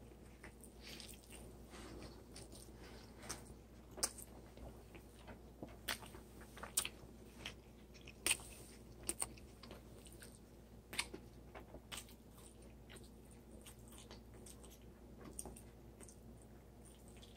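A person chewing a bite of burrito, quietly, with scattered sharp clicks, most of them in the first half.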